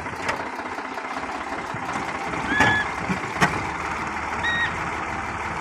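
Farmtrac 45 tractor's diesel engine running steadily, with a few sharp knocks and two brief high squeaks, one midway and one near the end.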